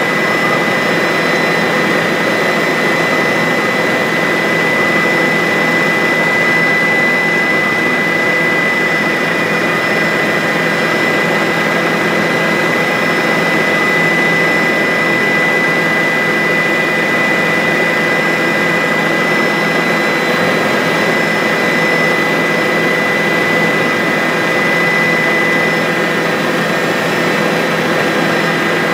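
Bell 407 helicopter's turboshaft engine and rotor running steadily, a constant high whine over a dense rushing noise.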